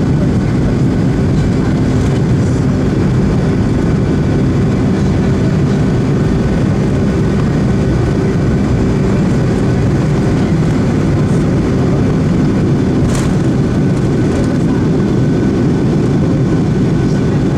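Boeing 757 jet engines running in a loud, steady drone with steady tones through it, and a short tick about thirteen seconds in.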